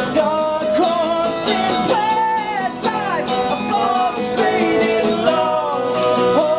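A band playing country-folk music: guitar with a gliding, bending lead melody line over it.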